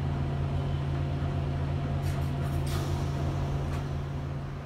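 Running noise of an ÖBB Nightjet sleeping car heard from its corridor: a steady low rumble and hum, with a few short clicks and rattles about halfway through.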